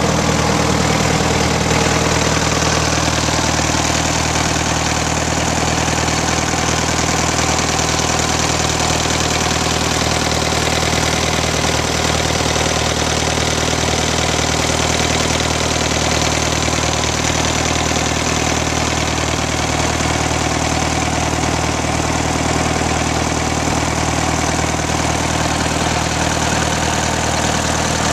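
1938 Case C tractor's four-cylinder engine running steadily at idle, its pitch and loudness unchanging.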